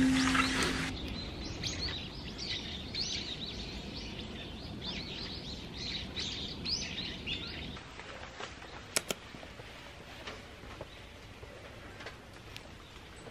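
Birds chirping repeatedly in quick short calls over a steady background hiss; the chirping dies away about eight seconds in, and a sharp click stands out about a second later.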